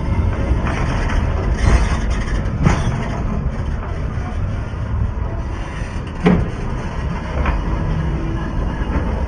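A train rolling slowly over a phone placed beneath it, picked up close: a heavy, steady rumble with a few sharp clanks of the wheels over the rails.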